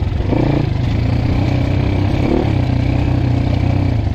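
Dirt bike engine running at low revs. It picks up slightly just after the start, with a brief blip of the throttle a little past two seconds in.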